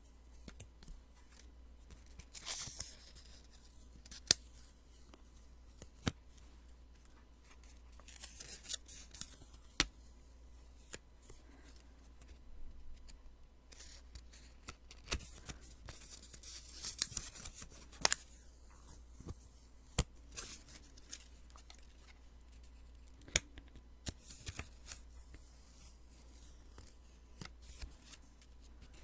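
Sticky notes being peeled off and handled close to the microphone: irregular crisp peeling and rustling strokes with sharp little clicks in between.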